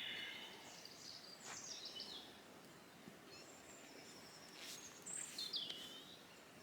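Songbirds calling with short, high chirps every second or two over a faint outdoor hush, with a few light clicks.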